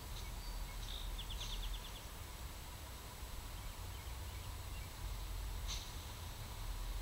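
Wild birds calling: a few short high chirps and a quick rattling trill of about eight notes about a second in, and another chirp near the end. Behind them a steady low rumble and hiss.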